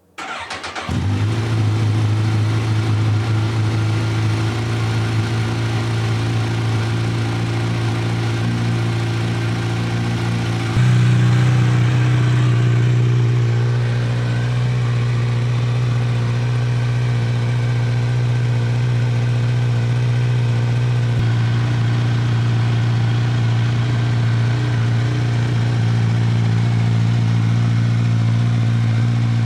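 Kawasaki Z1000's inline-four engine cold-starting after winter storage, catching within about a second and then idling steadily. About eleven seconds in the idle steps up a little in pitch and loudness, easing back slightly a couple of seconds later.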